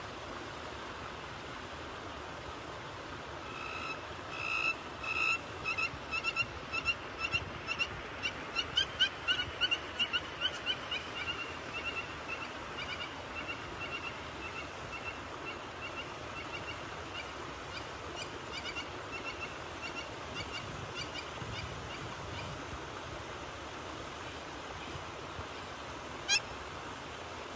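A bird calling in a long run of short, repeated notes, about two a second at first, then quicker and loudest around the middle, fading away after about twenty seconds. One sharp, rising call comes near the end, over a steady background hiss.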